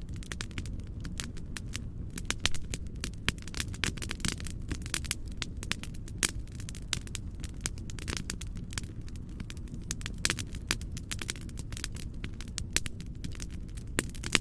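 Wood fire crackling, with frequent sharp pops and snaps over a steady low rumble of burning.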